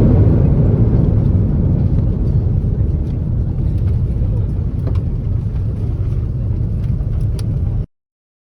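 Airbus A330-300 cabin rumble as the airliner rolls on the ground after landing, gradually easing in level with a few faint clicks. It cuts off abruptly near the end.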